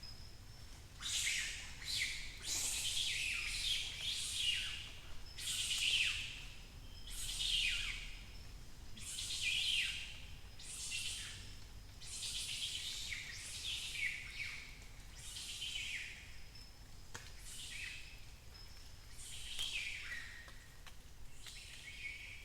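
Dawn chorus of birds, one of them repeating a harsh, high call that falls in pitch about once a second, with a faint thin whistle heard between the calls.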